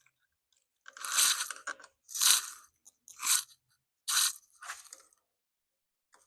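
Four short crunching, rustling handling noises about a second apart, as motorcycle parts are worked into place by hand.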